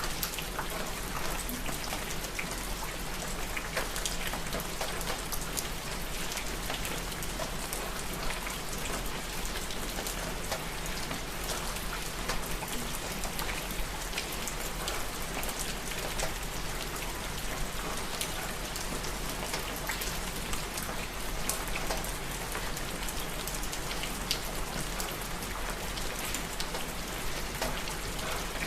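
Steady rain falling, with many individual drops striking a surface close by.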